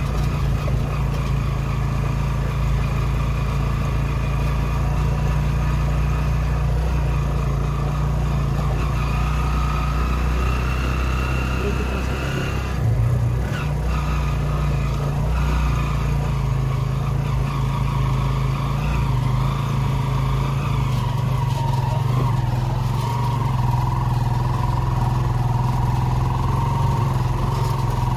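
Motorcycle engine of a Philippine tricycle (a motorcycle with a sidecar) running steadily while under way, heard from aboard, briefly louder about halfway through.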